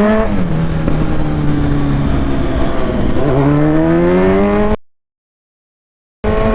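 Kawasaki Z900's inline-four engine under way: the revs climb, drop suddenly, hold steady, then climb again as it accelerates. Near the end the sound cuts out completely for about a second and a half before the engine returns.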